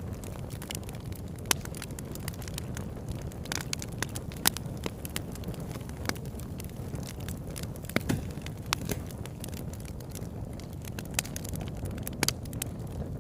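Wood campfire burning with a steady low rush of flame and irregular crackles, with a few sharper pops from the burning logs.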